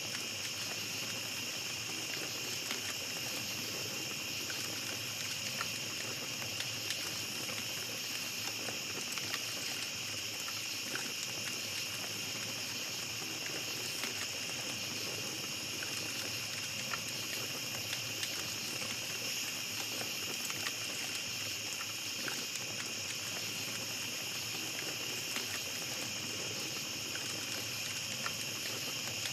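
Small campfire crackling, with scattered little pops, over a steady high-pitched chorus of night insects.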